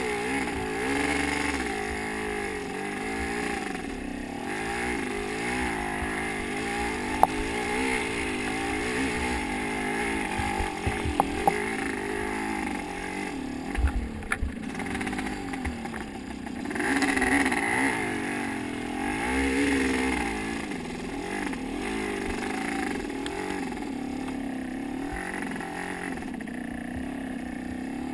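Motocross bike engine revving up and down over and over as it is ridden, with a few sharp knocks and clatters along the way.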